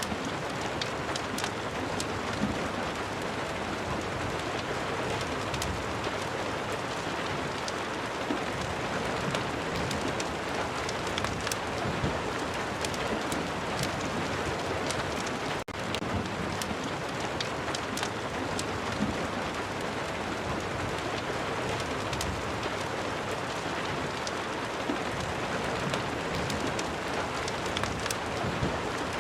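Steady heavy rain ambience with scattered sharp crackles, typical of a rain-and-fireplace sound mix. The level dips for an instant about halfway through.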